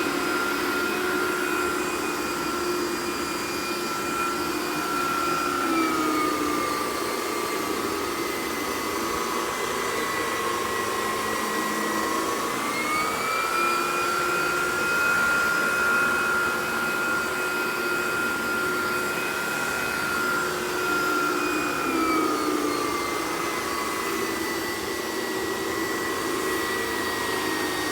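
Miele canister vacuum running with a Vacuflo T21 turbo brush head working over carpet. Its steady whine sags and rises in pitch a couple of times as the head is worked back and forth. The whine is a little louder than usual, which the owner puts down to a bearing that needs doing.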